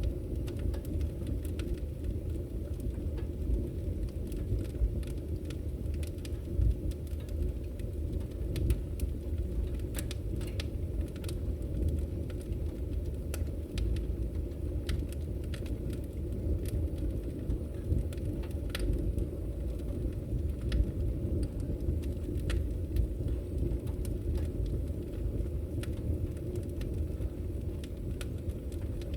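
Wood fire burning in a fireplace: a steady low roar with frequent sharp, irregular crackles and pops from the logs.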